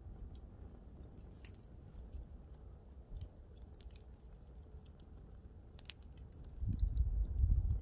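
Wood campfire crackling, with irregular sharp snaps and pops. A low rumble rises during the last second or so.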